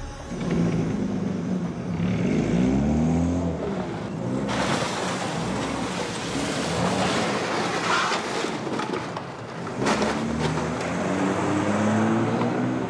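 Car engine revving hard as the car pulls away, its pitch rising and falling several times. In the middle comes a longer stretch of rough noise with knocks as the car runs into cardboard boxes.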